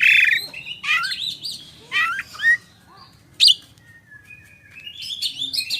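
Oriental magpie-robin (kacer) singing a varied, agitated song of short whistles, chirps and rising and falling slurs. It opens with a loud buzzy note, goes quieter for about a second and a half past the middle, then picks up again near the end.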